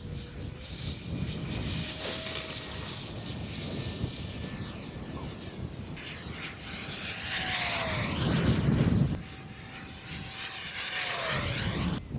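A 90mm electric ducted fan on a Psy-Cho RC jet running on 8S, whining at high speed in three fly-bys. The pitch drops each time the jet passes, and the sound cuts abruptly between passes.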